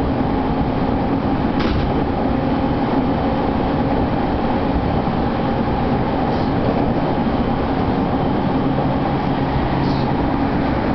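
Steady running noise inside a Tokyo Waterfront Area Rapid Transit 70-000 series electric train: the rumble of wheels on rail, with a low hum coming in about eight seconds in.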